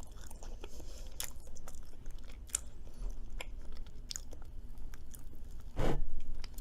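A person chewing and biting food close to the microphone: soft, irregular mouth clicks and crunches, with one louder burst a little before the end.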